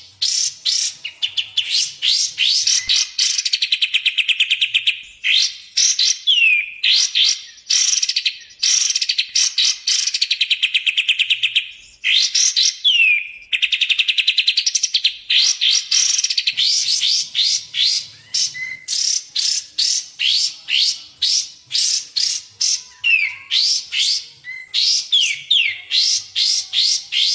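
Recorded songbird song from a masteran track of kapas tembak and cucak jenggot: a continuous stream of fast, high, upward-sweeping chirps broken by several rapid, even trills.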